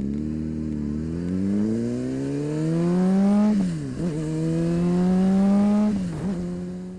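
Honda CBR600RR inline-four engine pulling up through the revs under acceleration, its pitch dropping sharply at a gear change about three and a half seconds in and then climbing again. It dips once more near the end and fades out.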